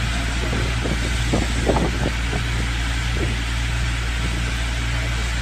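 Car engine and road noise: a steady low drone, with a few faint short sounds over it between about one and two seconds in.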